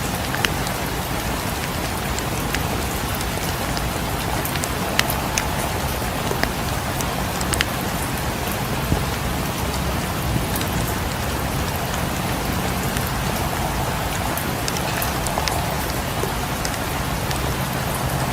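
Steady rain falling, mixed with the scattered sharp pops and crackles of a wood fire in a fireplace.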